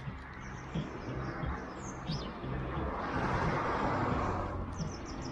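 Wood fire burning with scattered crackles and pops, a swell of rushing noise about three seconds in, and a bird chirping briefly about two seconds in.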